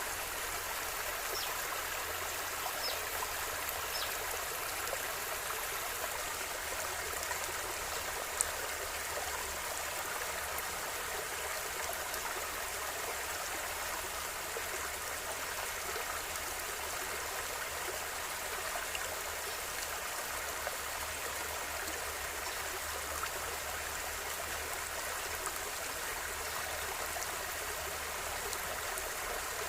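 A river flowing steadily over stones, with small splashes and one sharp click of water about eight seconds in.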